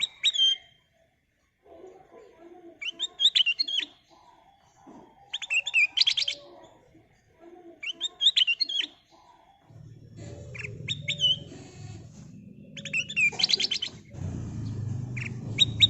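A kutilang emas, the black-crested bulbul, singing in short bursts of quick, sweeping notes about every two seconds. A low rumble of background noise comes in about ten seconds in and grows louder near the end.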